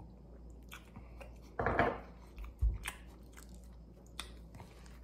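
A person biting into and chewing a maple bacon chicken croissant sandwich: soft crunches and wet mouth sounds, with a louder bite about a second and a half in and a short low thump just after.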